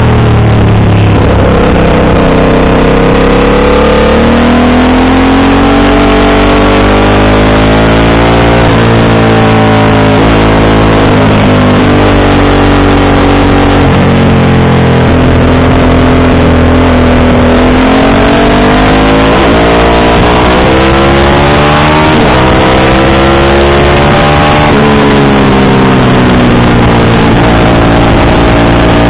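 Motorcycle engine running loud through an aftermarket exhaust while riding, its pitch climbing under acceleration and dropping sharply several times at gear changes.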